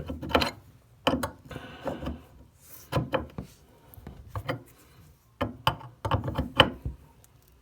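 Irregular clicks and knocks of a wrench and plastic parts being handled while a toilet fill valve's mounting nut is tightened under the tank.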